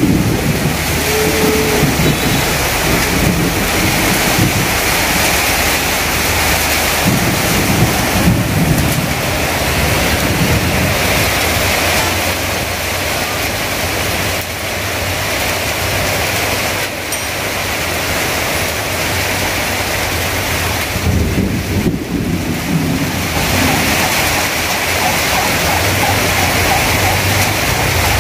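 Heavy rain pouring steadily onto tarpaulin stall awnings and running off their edges in streams. A low rumble rises under the rain about seven seconds in and again about twenty-one seconds in.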